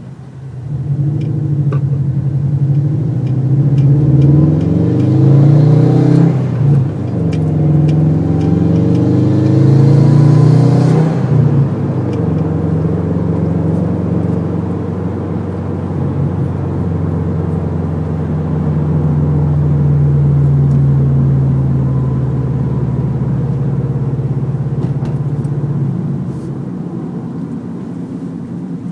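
2011 Subaru WRX with a Cobb intake, its turbocharged 2.5-litre flat-four accelerating hard: the engine note climbs, dips briefly at a gear change about six seconds in, climbs again and drops about eleven seconds in. It then holds a steadier, slowly rising note and eases off near the end.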